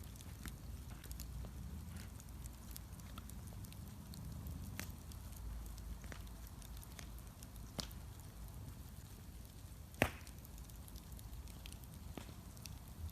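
Bonfire crackling: scattered sharp pops and snaps over a low steady rumble, with one loud pop about ten seconds in.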